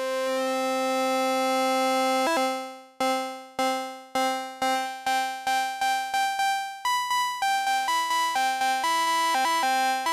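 Arturia MicroFreak synthesizer playing its SawX modulated-sawtooth oscillator, with the modulus-stage gain being adjusted: a single held note for about three seconds, then the same note repeated in quicker and quicker stabs, and from about seven seconds in a pattern of changing pitches.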